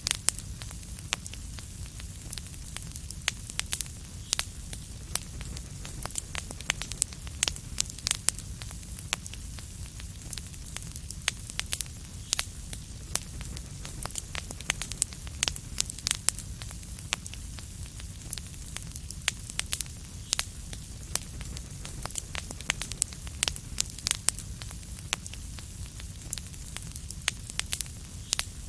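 Wood fire crackling in a fireplace: steady low rumble and soft hiss with many sharp, irregular pops and snaps several times a second.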